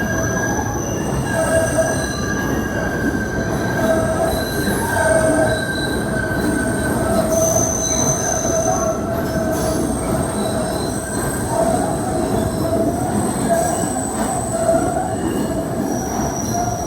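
A PATH subway train running through the underground station: a steady loud rumble of the cars with the steel wheels squealing on the rails, several high squealing tones held and overlapping throughout.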